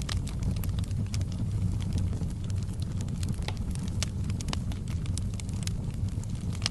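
Fireplace fire burning steadily: a low rumble of flames with frequent, irregular sharp crackles and pops.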